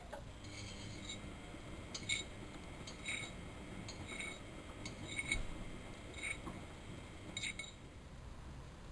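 Miele Novotronic washing machine working through a 95 °C boil wash: a low steady rumble with a light metallic clink about once a second as the drum turns.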